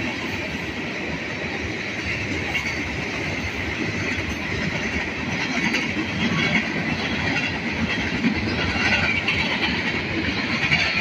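Norfolk Southern freight train's tank cars and covered hopper cars rolling past, a steady rumble and rattle of steel wheels on the rail that grows a little louder toward the end.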